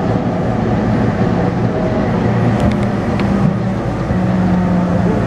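Taipei Metro C301 train running, heard inside the car: rumbling rail noise under the hum of its retrofitted VVVF inverter and traction motors, whose steady tones shift in small steps. The inverter noise is taken by the uploader as an abnormal sound. There are a few brief clicks midway.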